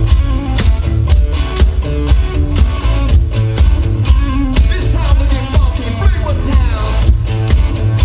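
Live band playing a dance groove: heavy bass guitar and drums with a steady beat.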